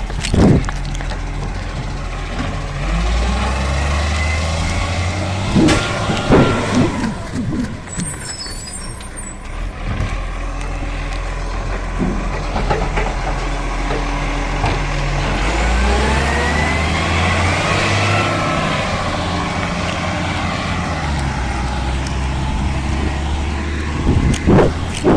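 Garbage truck's diesel engine running, revving up twice, with a few sharp clunks about six seconds in and a rising whine as it revs the second time.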